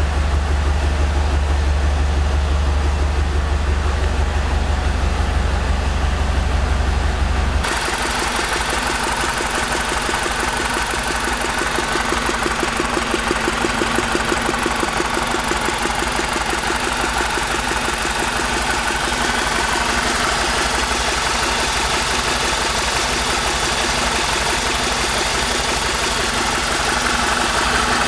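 BMW E46 318i four-cylinder petrol engine idling steadily. About eight seconds in, the sound changes abruptly: the deep low rumble falls away and a brighter, busier mechanical sound takes over.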